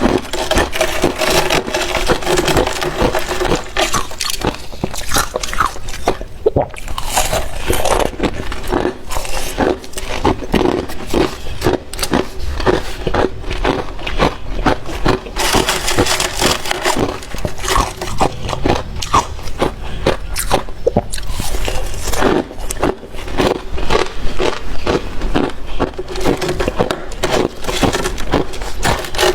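Close-miked crunching and chewing of freezer frost, a dense, continuous run of quick crunches and scrapes.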